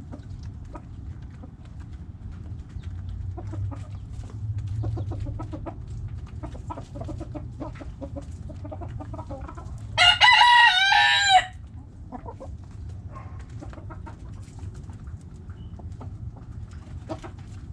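Backyard hens clucking softly, with a rooster crowing once, loud and short, about ten seconds in, over a steady low background rumble.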